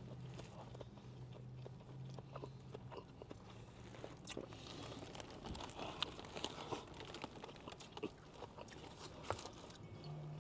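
Close-miked eating sounds: biting into and chewing a fried chicken slider, with scattered small crunches and mouth clicks. A low steady hum runs underneath for the first few seconds.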